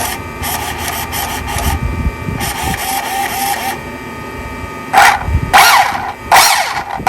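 An RC car's Velineon brushless motor spinning up in short throttle bursts, each a rising whine. The bursts start about five seconds in and come about three times in quick succession, over a steady high whine, as the freshly rebuilt and bound car is tested. Earlier there are two shorter stretches of noisy whirring.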